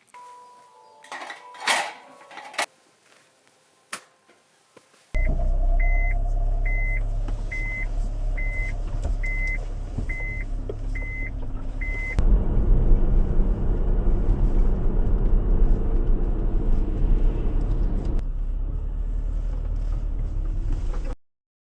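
A few clicks and knocks, then a car starts running with a loud, steady low rumble. Nine short, evenly spaced beeps sound over it. The rumble grows louder about halfway through and cuts off sharply near the end.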